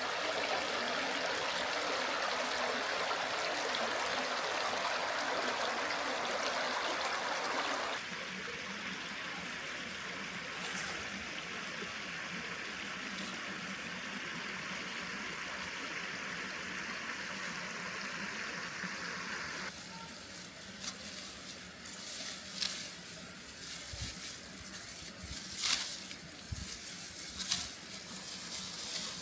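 Steady sound of running water, loudest for the first several seconds and then quieter, with scattered clicks and rustles near the end.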